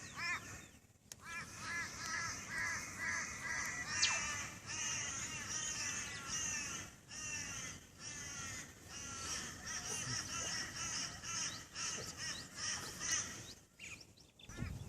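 Birds calling in a rapid run of repeated, arching calls, several a second, through most of the stretch, with a brief break about a second in and another near the end.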